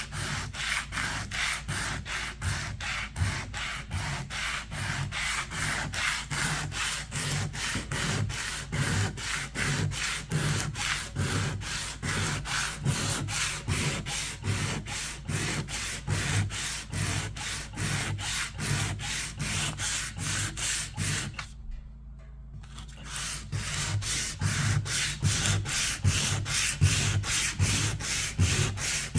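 Hand sanding of old paint and finish, in quick, even back-and-forth strokes of a bit under three a second. There is a short pause a little past two-thirds of the way through before the strokes resume.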